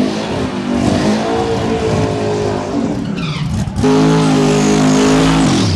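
Car engine held at high revs, dipping briefly and climbing again, with tyres squealing as in a burnout at a car meet. The revs fall away sharply near the end.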